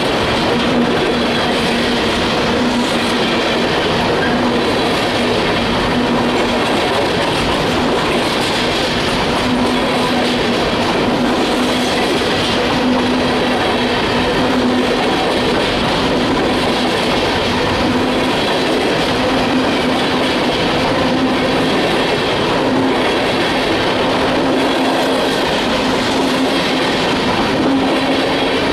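Freight train's cars rolling steadily past at close range, a continuous rattle and clatter of wheels on rail with a steady hum underneath.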